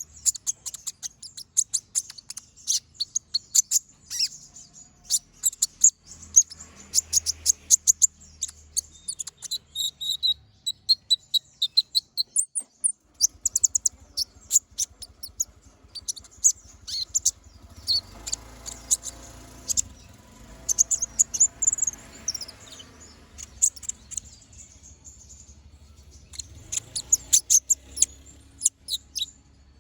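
Kolibri ninja (konin) sunbird singing nonstop: a rapid chatter of sharp, high, very short chirps, with a quick trill about ten seconds in.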